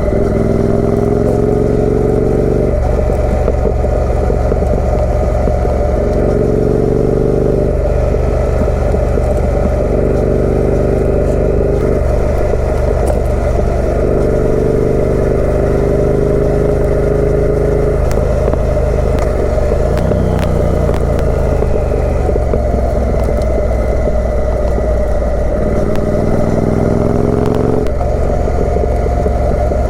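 Triumph Speed Twin 900's parallel-twin engine through a British Customs aftermarket exhaust, pulling hard as the motorcycle accelerates through the gears: the note rises in pitch and drops back at each upshift, several times over, with an easing off about twenty seconds in before it pulls up again.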